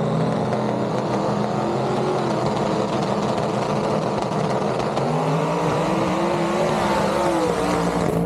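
Loud racing engines at a drag strip. Partway through, one engine's pitch climbs for a second or so, then drops again near the end.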